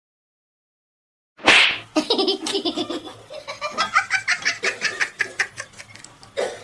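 Silence, then about a second and a half in a sudden loud burst of noise, followed by a person laughing hard in rapid, repeated bursts.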